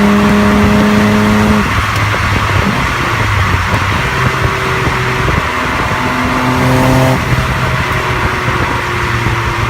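Nissan Skyline GT-R R33's RB26 twin-turbo straight-six heard through its aftermarket exhaust while driving. The note holds steady and high, drops sharply about a second and a half in, then runs lower with a brief higher stretch past the middle before dropping again.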